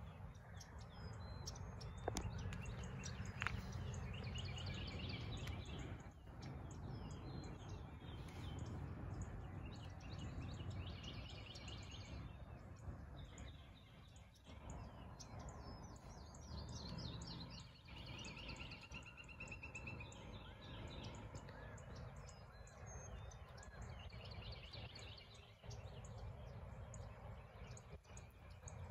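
Birds calling in short runs of quick repeated high notes every few seconds, over a low steady rumble.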